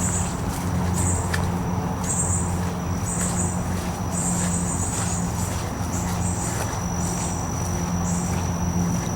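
Insects calling: a steady high thin trill with short raspy chirps repeating about once a second, over a low steady hum.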